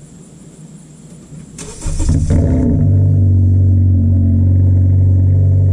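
Honda Civic's 2.0-litre K20C2 four-cylinder being cranked by the starter and catching about two seconds in, then running at a steady, loud idle through a Flowmaster DBX pipe fitted in place of the resonator: a cold start.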